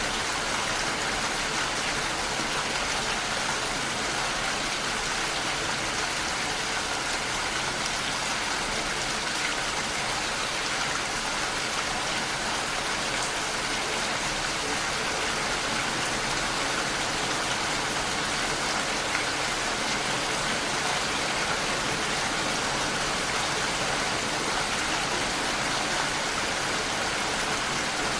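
Steady rain falling and pattering against a window pane, an even continuous hiss without distinct drops standing out.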